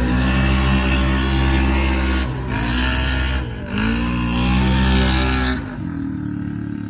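Off-road racing vehicle's engine running at high revs, its pitch briefly dipping and climbing back twice. Near the end it drops to a quieter, lower steady drone.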